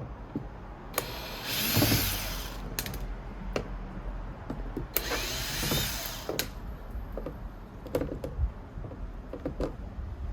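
Electric screwdriver running in two short bursts, backing out Torx screws, with small clicks and taps of handling between the bursts.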